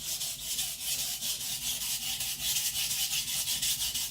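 Nakiri blade of hard niolox tool steel scraped back and forth on a coarse 220-grit whetstone in quick, even strokes, about five a second, grinding the edge up to a burr.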